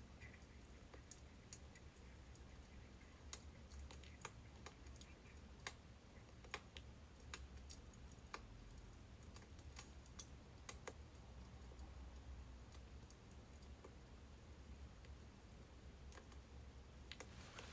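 Faint birch-wood fire crackling: sparse, irregular sharp pops and snaps over a low steady hum.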